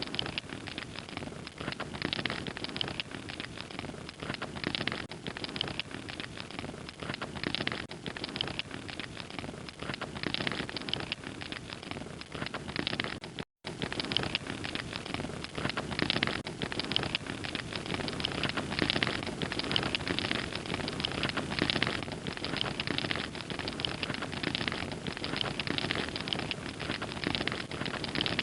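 Fire crackling, a steady dense run of small snaps and pops, cutting out completely for a split second about halfway through.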